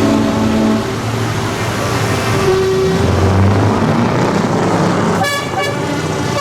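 Tractor engines running as a procession passes, with horns tooting: a short horn note at the start and a longer, rich-toned horn blast beginning about five seconds in.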